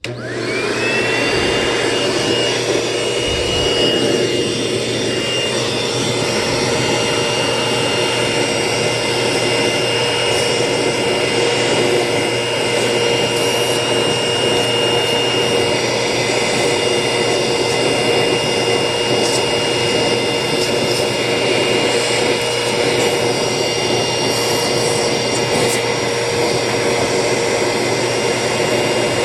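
Vacuum cleaner running steadily while dust is vacuumed off air conditioner filters; the motor starts up at the beginning, its whine rising over about a second to a steady pitch.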